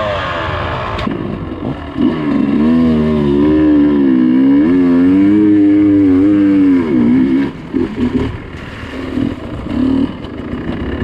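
Dirt bike engine under hard throttle, its pitch held high and wavering for several seconds, then backing off into short throttle blips near the end.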